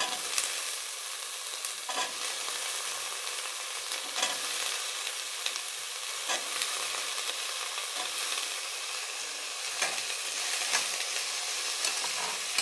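Diced potatoes going into hot oil in a kadai with frying onions and garlic, sizzling steadily, while a steel spatula scrapes and taps against the pan every second or two as they are pushed in and stirred.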